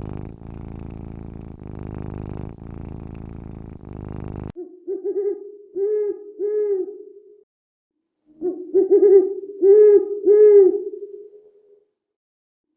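A cat purring steadily, swelling about once a second with its breathing. About four and a half seconds in it cuts to an owl hooting: two series of calls, each a held note followed by two or three short arched hoots.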